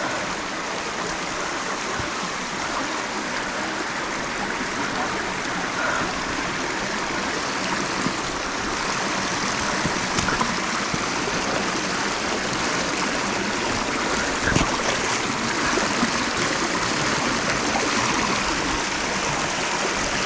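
Cucumber Run, a rocky mountain stream, rushing and splashing steadily over boulders. An occasional faint knock sounds over the water, one clearer about two-thirds of the way in.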